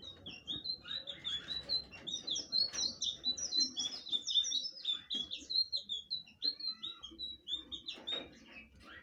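Blue flycatcher (sikatan biru) singing a long, fast warbling song of short, sharp high notes, which trails off about seven and a half seconds in.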